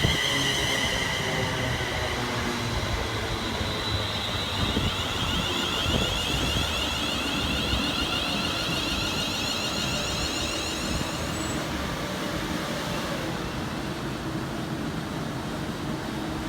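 A train running on the line: a steady rumble, with a high whine that fades over the first couple of seconds.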